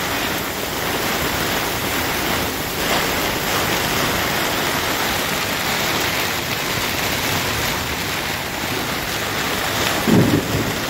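Heavy thunderstorm rain pouring down on the water and on the sailboat's canvas and clear vinyl enclosure, driven by strong wind, steady and loud. A short, louder low thump comes near the end.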